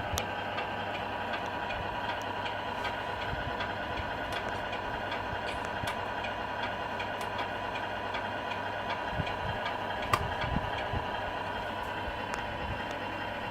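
RC Scania R470 truck model's sound module playing a steady diesel engine idle through its small speaker, with a single sharp click about ten seconds in.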